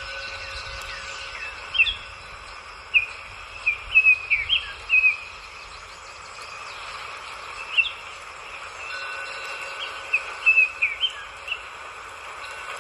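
A songbird singing phrases of short, quick chirps: one burst of song about two to five seconds in and a similar one about ten seconds in, with a single chirp between. Under it runs a steady outdoor hiss, with a faint steady tone at the start and again in the last few seconds.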